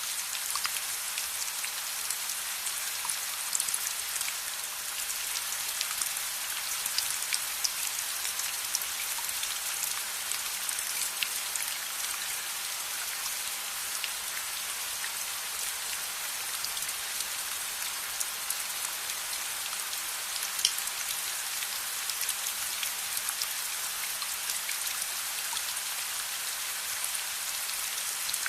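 Steady rain falling as an even hiss, with scattered sharp ticks and pops through it.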